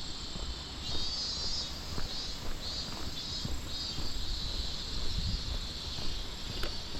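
Insects chirring steadily in a high-pitched, pulsing band, over a low rumble and scattered soft knocks.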